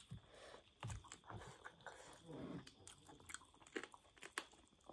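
Faint chewing and biting of chicken eaten by hand, with scattered small mouth clicks and smacks.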